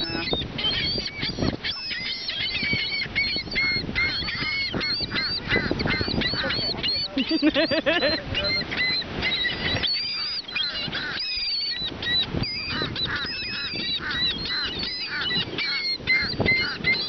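A flock of seagulls calling without pause: many short, overlapping cries crowd one another throughout.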